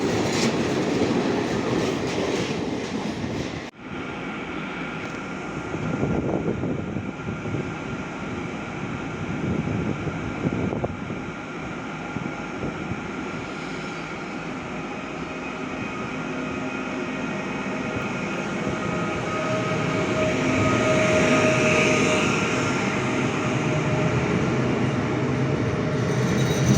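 A train running on the line, a continuous rolling noise of wheels on rail with a steady whine above it, growing louder toward the end. The sound cuts out briefly about four seconds in.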